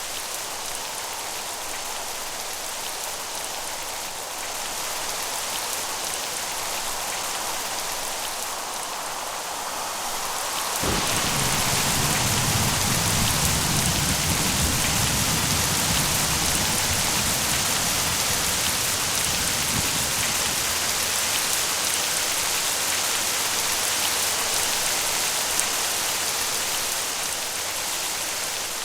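Steady heavy rain. About a third of the way in, a low rolling thunder rumble starts suddenly and dies away after roughly ten seconds.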